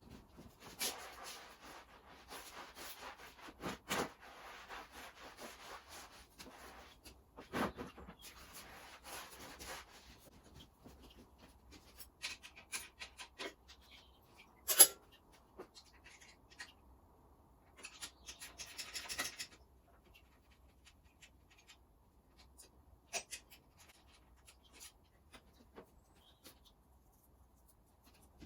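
Hands working on an engine: rustling and rubbing with scattered clicks and knocks, and one sharp click about 15 seconds in.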